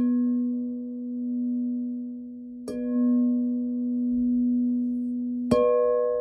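Singing bowl struck three times, about every three seconds. Each strike leaves a long low ringing hum with higher overtones that wavers slowly in loudness.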